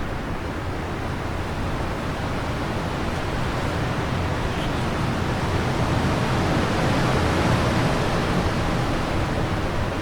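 Wind blowing steadily, a rushing noise that swells a little past the middle.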